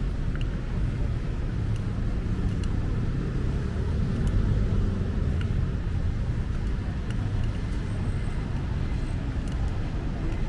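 Steady rumble of passing road traffic, with a few faint scattered ticks.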